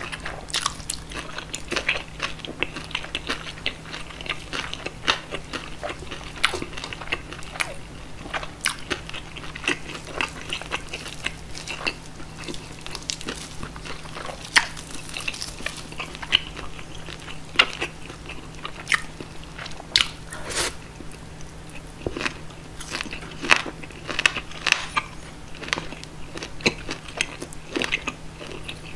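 Close-miked eating sounds: crunching, biting and chewing of roast pork knuckle and pickle slices. Many sharp crisp crunches come at irregular moments throughout, with wet mouth sounds between them.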